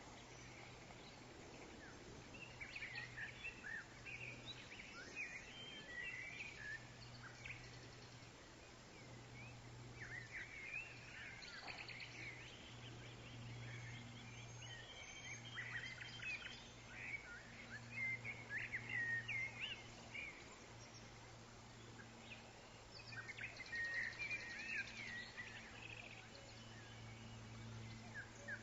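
Woodland songbirds chirping and twittering in scattered bursts of quick, high notes, over a faint steady low hum.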